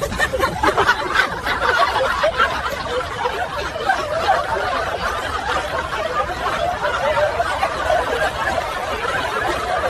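A group of people laughing and chuckling together.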